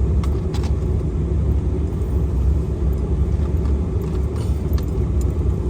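Steady low rumble of a vehicle moving along a road, heard from on board.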